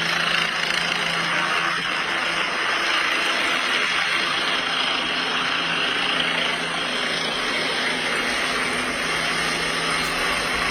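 Helicopter running steadily, an even engine and rotor noise with a low, constant hum.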